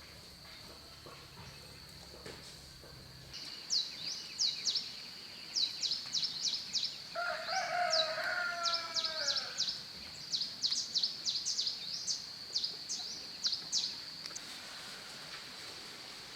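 About three seconds in, a steady high drone of insects and a run of quick, high chirps begin. In the middle a rooster crows once, its call falling at the end.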